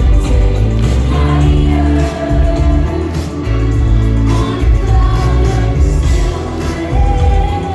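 Synth-pop band playing live: a female lead vocal sings long held notes over a heavy bass line, drums and synths.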